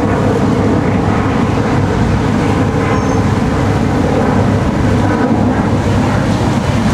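Boat engines running with a steady low rumble.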